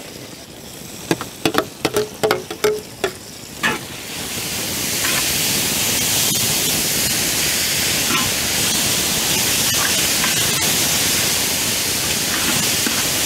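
Metal spoon scraping and clinking against a wide metal pan, then from about four seconds in a steady sizzle as freshly added chopped tomatoes fry in hot oil with onions and green chillies while being stirred.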